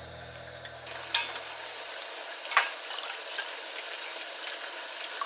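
Food sizzling in a pan over camp cooking heat, a steady hiss with two sharp clicks, the second about a second and a half after the first.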